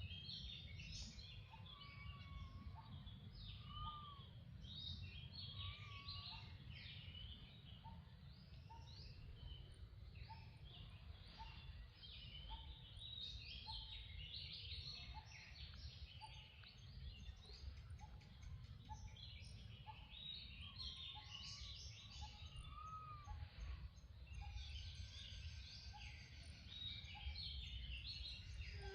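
Faint outdoor ambience of many birds chirping at once. A short call repeats about once a second, with a few brief whistled notes, over a steady low rumble.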